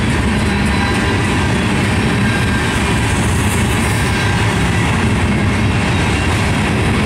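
Herzog ballast hopper cars rolling past, their steel wheels running steadily on the rails.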